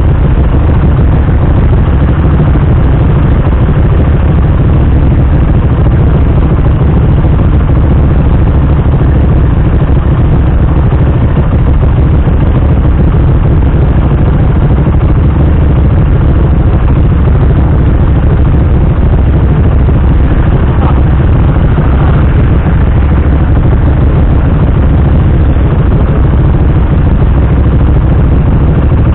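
Naza 650cc cruiser motorcycle idling steadily, a constant low-pitched engine sound.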